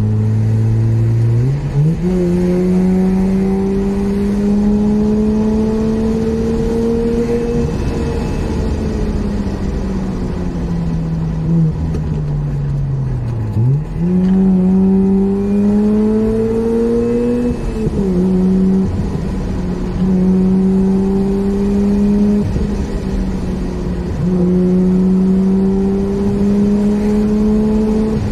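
Mazda RX-8's two-rotor Wankel rotary engine, heard from inside the cabin, revving hard through a run of corners. The pitch climbs steadily under acceleration and sags as the car slows. Sudden upward jumps about a second and a half in and again around halfway mark downshifts, and a sudden drop a little later marks an upshift.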